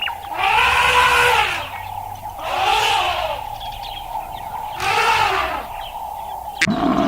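An animal calling three times, about two seconds apart; each call is about a second long and rises and then falls in pitch. A steady high tone runs underneath.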